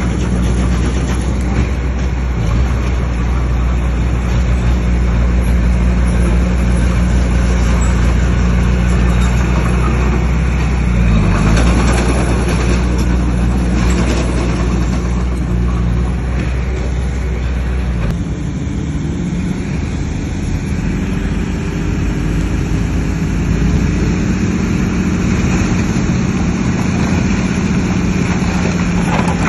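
Heavy earthmoving machine's diesel engine running steadily, its note changing about two-thirds of the way through to a rougher sound with a higher tone.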